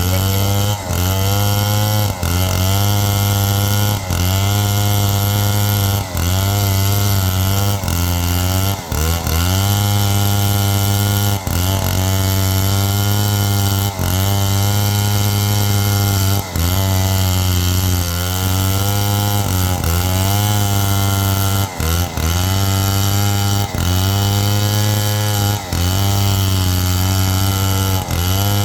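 A 707 chainsaw running hard while ripping through wood. The engine note dips briefly about every two seconds as the chain bites, then climbs back up.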